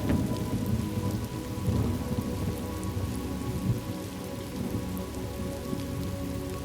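Thunderstorm ambience: steady rain falling, with a low rumble of thunder dying away over the first couple of seconds.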